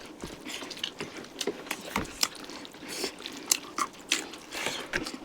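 Close-up mukbang eating sounds: chewing chicken curry, with frequent short, irregular wet smacks and clicks.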